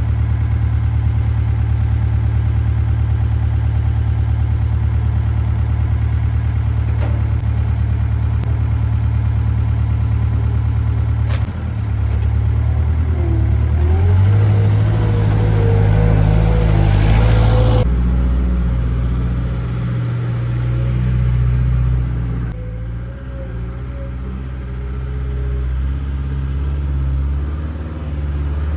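Skid steer loader's engine running steadily, then working louder and changing pitch partway through, with a wavering whine above it; the sound shifts abruptly a couple of times.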